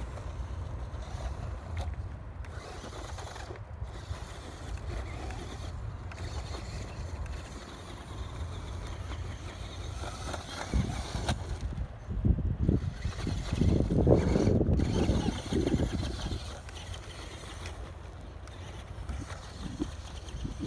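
ECX AMP Desert Buggy, an electric radio-controlled car, driving over dirt and gravel. It gets louder and rougher between about twelve and sixteen seconds in, over a steady low wind rumble on the microphone.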